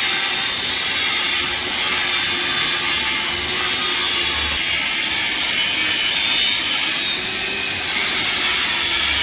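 Steady hissing, grinding noise of a metalworking power tool running on steel, switching on abruptly and cutting off after about nine seconds.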